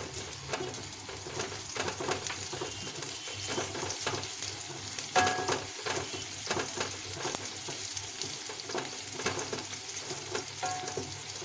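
Green chillies, grated ginger and cumin sizzling in hot oil in a stainless steel kadai, stirred with a wooden spatula that scrapes against the pan. A brief squeak about five seconds in.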